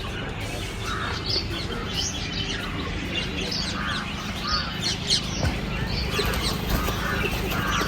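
Birds chirping and calling, many short calls one after another, over a steady low hum.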